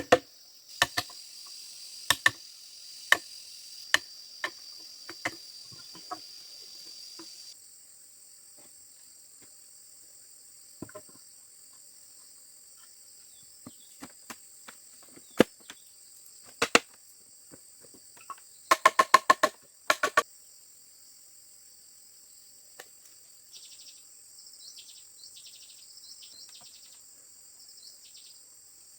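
Sharp strikes of a hand tool on bamboo, about one a second at first. Later come scattered knocks, then a quick run of ringing blows about two-thirds of the way through, over a steady high chirring of insects.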